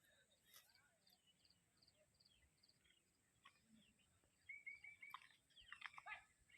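Faint bird calls: a run of short, evenly spaced high chirps, then a quick series of four lower whistled notes and a few sweeping calls near the end.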